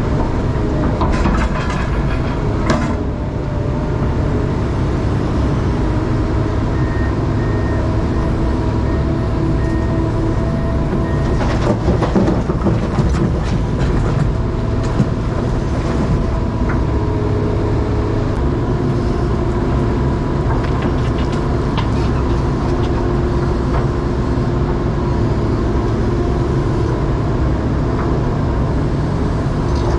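Komatsu 308 excavator's diesel engine running at high throttle, with a steady hydraulic whine, while it digs and loads a dump trailer. Occasional knocks and clatter, the busiest stretch about twelve seconds in.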